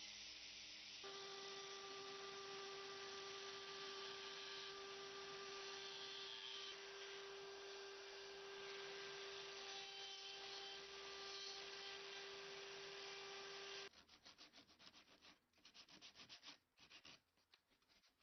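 A small electric power tool runs steadily with a hiss and a hum, then cuts off abruptly about 14 seconds in, leaving a few seconds of irregular short scraping and ticking.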